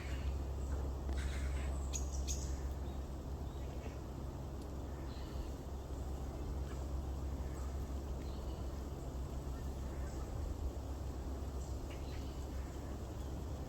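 Short, high bird calls or chips at scattered intervals, several in the first couple of seconds and a few more near the end, over a steady low rumble.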